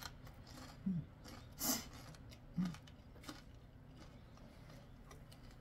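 Quiet chewing of crispy fried chicken, with a brief crunchy burst a little under two seconds in and two short low hums from the eater, one before it and one after.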